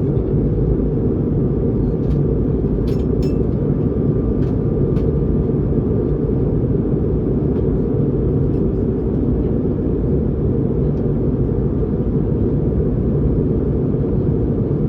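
Steady in-flight cabin rumble of an Airbus A220-300 airliner, engine and airflow noise, level and unchanging, with a few faint clicks around three seconds in.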